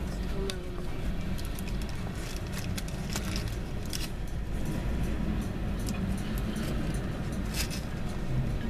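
Freight train cars rolling slowly past: a steady low rumble with scattered, irregular clicks and ticks.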